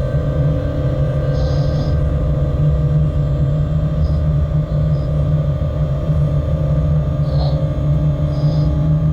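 Freight train running, heard inside the locomotive cab: a steady low rumble with several steady tones held over it, and a few short high squeaks, one about a second and a half in and two more near the end.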